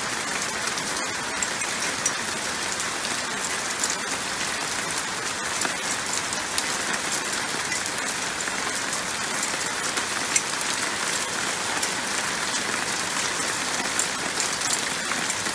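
Heavy downpour pelting a balcony floor and plant pots: a steady, dense hiss with many small, sharp drop impacts.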